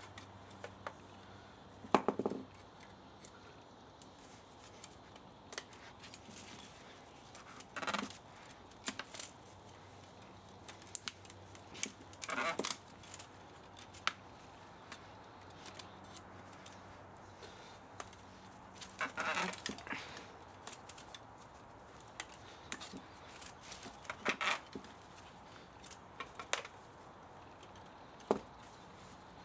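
Scattered clicks, clinks and short scraping sounds of hand tools working on metal parts of an old spa motor being taken apart for scrap, with a few louder clusters of knocks over a faint steady hum.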